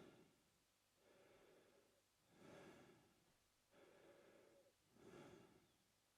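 A man breathing slowly and faintly through his mouth, two full breaths in and out, about one every two and a half seconds.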